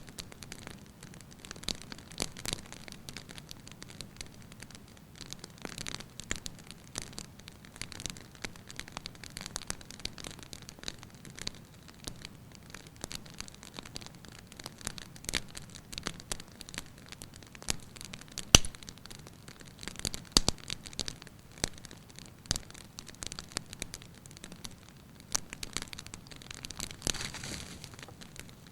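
Firewood burning in a fireplace: irregular crackles and pops over a soft hiss of flame, with a sharper pop about two-thirds of the way through.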